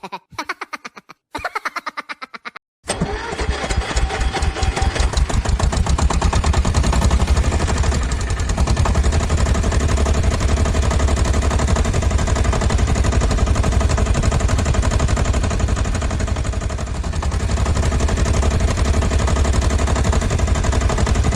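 An engine sputters in two short attempts, then catches about three seconds in and keeps running with a fast, even, low chugging.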